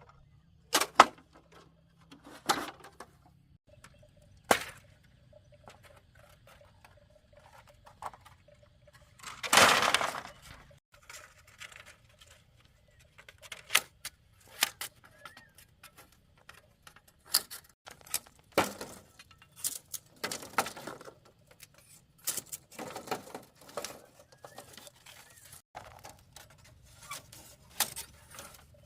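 Irregular knocks and clatters, spaced out and varying in loudness, with a louder rustling burst of about a second roughly ten seconds in.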